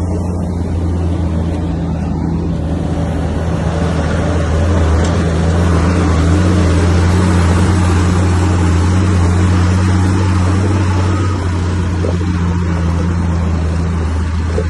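Heavy diesel engine of a Komatsu bulldozer running steadily with a deep hum, getting louder and rougher for several seconds in the middle as it works harder.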